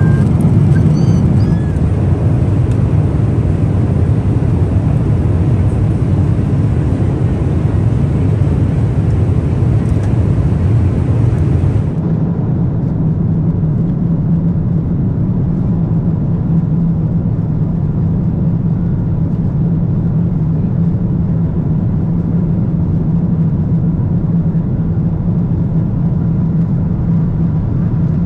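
Steady cabin noise inside a Boeing 777-300ER: the low, even roar of the engines and airflow. About twelve seconds in the sound turns duller as the upper hiss drops away.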